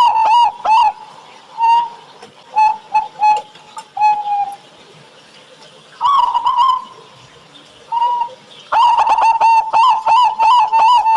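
Local zebra dove (perkutut) cooing: a fast run of short clipped coos at the start, then a few scattered coos and one longer drawn-out coo, and another fast run of coos near the end.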